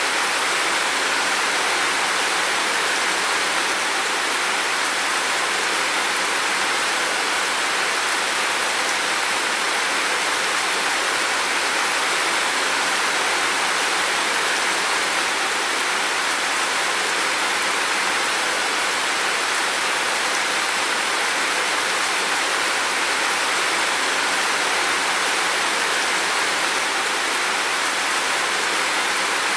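Heavy rain falling, a steady, dense hiss of water without breaks.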